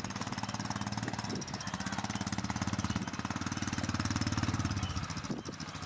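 An engine running with a rapid, even pulsing, getting louder through the middle and dropping off about five seconds in.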